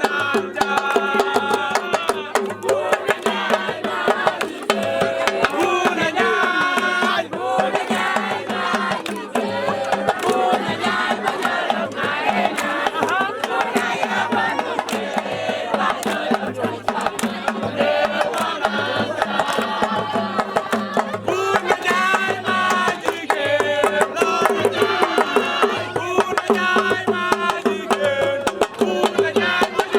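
Drumming with singing: fast, dense drum strokes under several singing voices.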